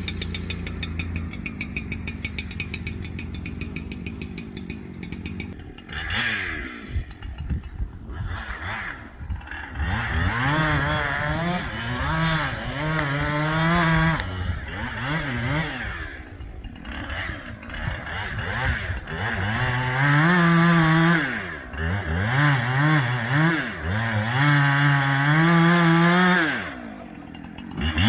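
Two-stroke chainsaw idling for the first few seconds, then throttled up and down again and again, with longer stretches held at high revs, the loudest near the end.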